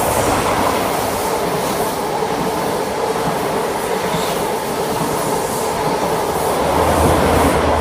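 CrossCountry High Speed Train (InterCity 125) led by a Class 43 diesel power car, moving through the station close by: a loud, steady rumble of the diesel engine and wheels on the rails, with a low hum swelling near the end.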